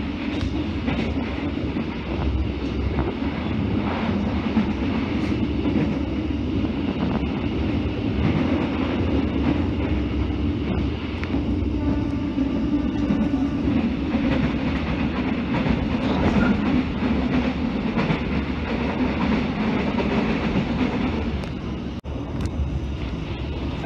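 Ride noise of a moving passenger train heard from inside an economy-class carriage: a steady rumble with the clickety-clack of wheels passing over rail joints.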